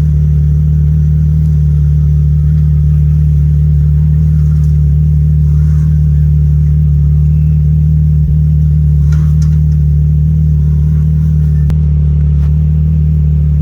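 Can-Am Maverick X3 side-by-side's engine running steadily at an unchanging pitch while it crawls down a steep rocky grade, with a faint knock or two.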